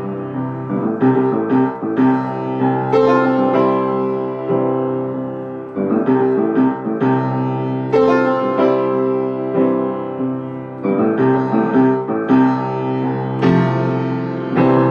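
Solo piano playing slow, sustained chords with no singing: the instrumental ending of a pop-jazz song.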